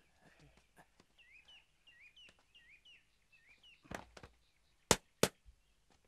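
Small birds chirping, a run of short repeated chirps. Near the end come two sharp knocks about a third of a second apart, the loudest sounds.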